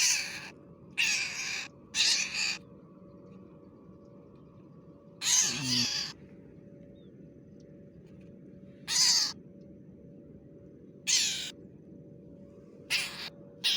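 A bird giving harsh, shrill squawks, about eight short calls at irregular gaps, the distress calls of a bird being caught by hand.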